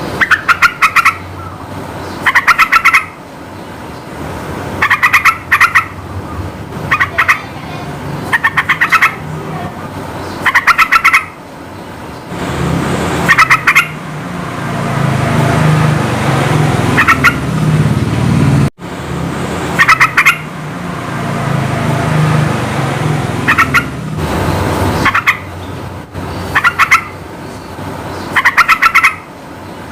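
Yellow-vented bulbul (trucukan) singing: loud, short bursts of rapid chattering notes, repeated about every two seconds. A low rumble underneath swells up in the middle.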